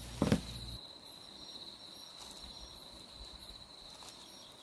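Crickets chirping steadily in a high, pulsing trill. A single sharp knock sounds just after the start, and a low hum cuts out a little under a second in.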